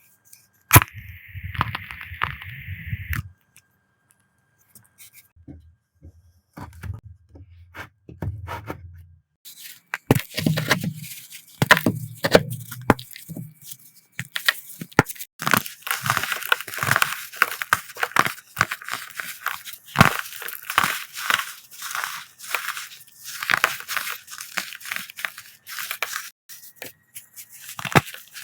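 Dyed powder blocks being crushed by hand close to the microphone, a crunchy, crackly crush that turns into dense, irregular crackling from about ten seconds in. Before that there are only a few soft thumps and rustles.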